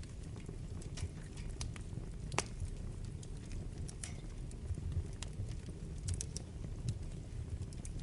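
Wood fire burning in a fireplace: a steady low rumble of flames with scattered sharp crackles and pops, the loudest pop about two and a half seconds in.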